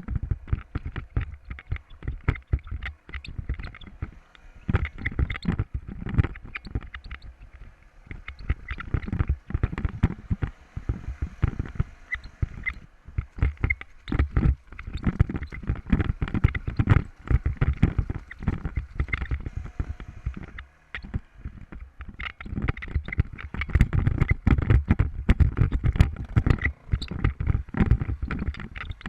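Continuous rapid, irregular knocking and rattling, typical of a motorcycle jolting over a rough rocky trail.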